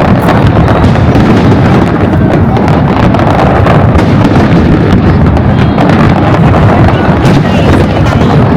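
Fireworks display heard as a loud, unbroken barrage: deep booms of aerial shell bursts running into one another, with sharp cracks mixed in.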